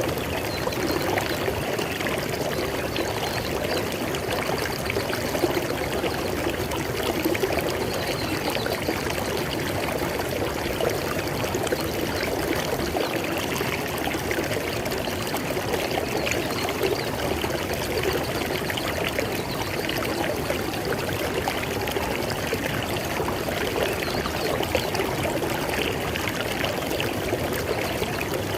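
River water flowing steadily over rocks, a continuous babbling and splashing rush with no pauses.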